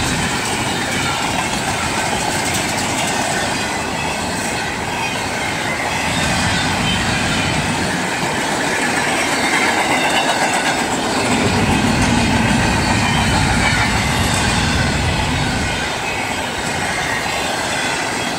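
Freight train cars rolling past at speed close by: a steady rumble and clatter of steel wheels on the rails.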